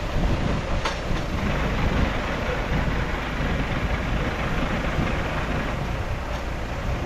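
Heavy diesel earthmoving machinery, a bulldozer, running steadily with a deep rumble, and a single sharp click about a second in.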